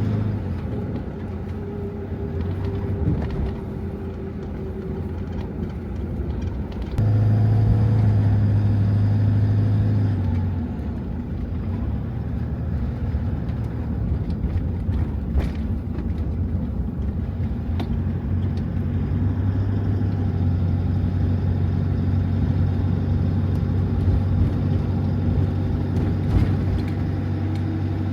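Toyota HiAce van's engine running, a steady low hum that grows louder about seven seconds in and settles again a few seconds later.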